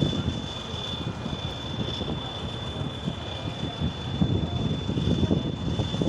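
Competition trial truck's engine running, mixed with wind buffeting the microphone, and a thin steady high whine over it.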